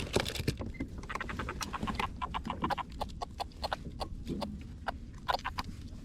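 Small bait fish flapping and slapping against a kayak, a quick, irregular patter of taps in clusters.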